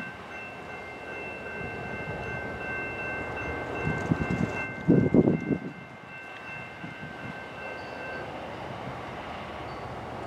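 Railroad grade-crossing bell ringing steadily over the low running of a slow-moving diesel train, an F40PH locomotive leading a Loram rail grinder. A loud rumble of about two seconds comes just past the middle, and the bell stops about eight seconds in.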